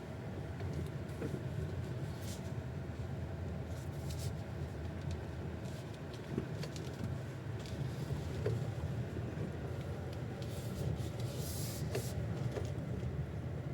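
Road rumble inside a moving GAC GS8 II, with a few short, sharp, ringing knocks from under the steering wheel as the car goes over bumps and its weight rolls side to side. The owner does not know the cause of the knock.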